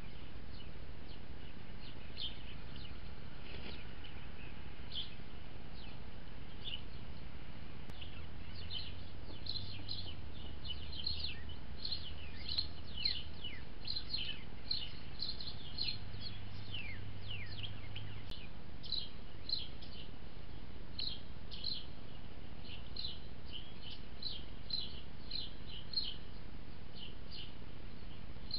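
Birds chirping: many short, high chirps, some sliding downward in pitch, coming in quick runs, over a steady background hiss.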